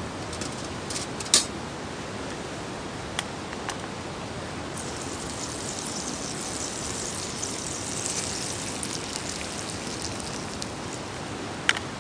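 Wood campfire crackling over a steady hiss, with a few sharp pops and a denser stretch of fine crackle in the middle.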